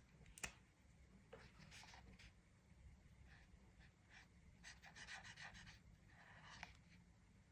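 Faint scratchy strokes of a coloring tool rubbing across a coloring-book page, in short bursts with a quicker run of strokes about five seconds in. A single sharp tap comes just after the start.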